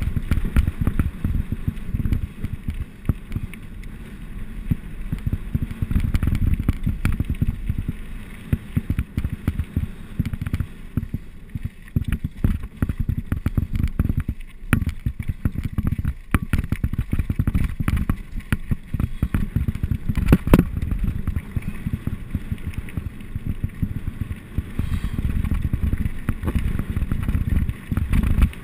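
Mountain bike descending a rough trail: wind buffets the microphone in a heavy rumble while the bike rattles and knocks over the ground. Short clatters come one after another, with a sharper knock about twenty seconds in.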